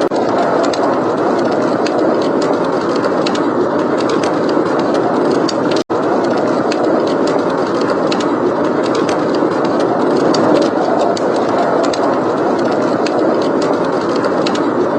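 Steady blizzard wind noise with scattered small crackles of a wood fire over it. The sound drops out for an instant about six seconds in.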